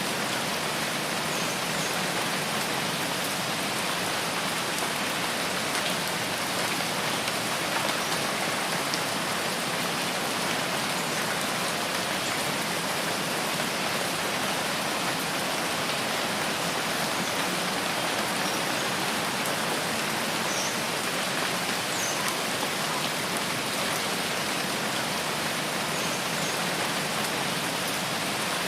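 Steady rain falling, an even unbroken hiss of dense drops.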